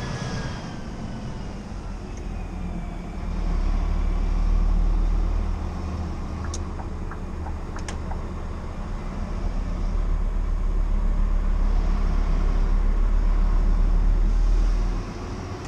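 Scania R490 truck's 13-litre inline-six diesel engine running under way, its low drone swelling louder about three seconds in and again from about ten seconds before dropping back near the end. Two sharp clicks come in the middle.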